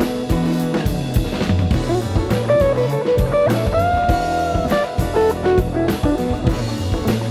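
Instrumental passage of a band song: drum kit beat and bass under a guitar melody line, which slides up into one long held note about halfway through.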